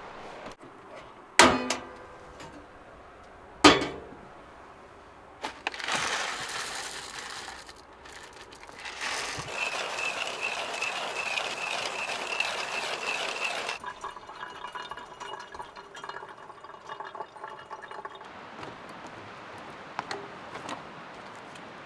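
Cookware or glass clinking sharply twice, then water being poured into a container for making coffee. The steady pour cuts off abruptly about two-thirds of the way through.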